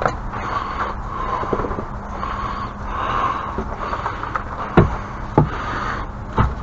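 A few sharp knocks and thuds over a steady background noise, the loudest about five seconds in, another soon after and one more near the end.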